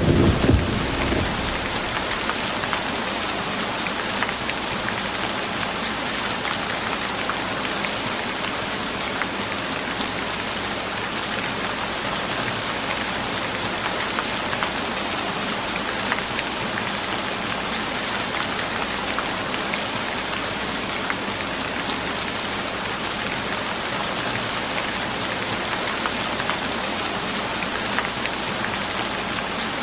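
Steady rain falling, an even patter of many drops. A deeper rushing sound fades out in the first second.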